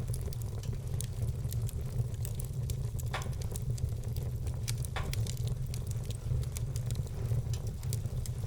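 Wood fire burning in a fireplace, crackling with many small, sharp pops. Two louder pops come about 3 and 5 seconds in, over a steady low rumble.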